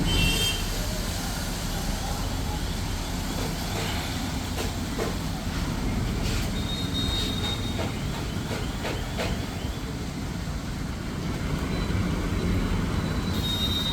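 Steady rain falling: an even hiss over a low rumble, with a few faint clicks.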